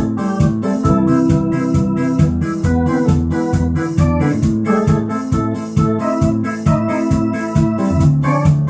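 Electronic organ playing a Korean trot tune in a disco rhythm in A minor: a sustained organ melody and chords over the instrument's built-in drum pattern with a steady beat and a bass line.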